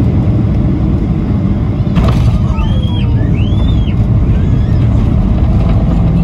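Steady roar of engine and airflow noise inside the cabin of a Boeing 737-800 airliner. A faint click comes about two seconds in, followed by two or three short, high, rising-and-falling voice-like calls.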